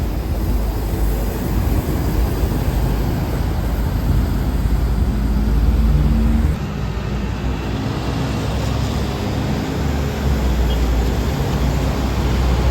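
Motor vehicle engine and road noise: a loud, deep rumble with a low hum. It drops suddenly about six and a half seconds in and swells again about ten seconds in.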